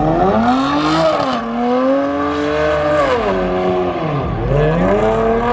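Car engine revving hard, its pitch climbing, dipping briefly about a second in, holding high, then falling to a low about four seconds in before climbing again near the end.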